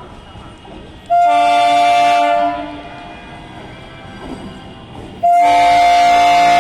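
Horn of an Indian Railways MEMU passenger train arriving: a blast of about a second and a half starting about a second in, then a second, longer blast from about five seconds in, several notes sounding together.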